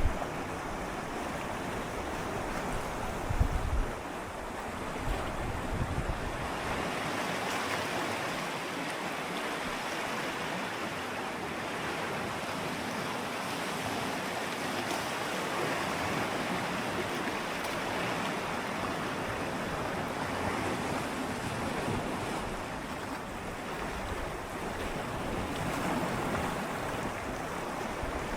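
Gentle sea waves swirling and lapping against shoreline rocks: a steady wash of water that swells and eases slowly. A few brief low bumps come in the first six seconds, like wind on the microphone.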